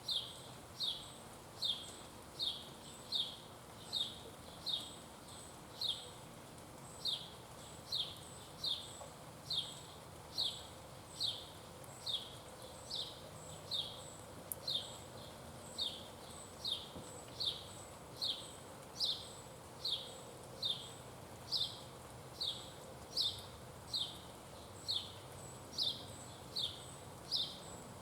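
A single sharp chip call, falling slightly in pitch, repeated with metronome-like regularity about once every three-quarters of a second.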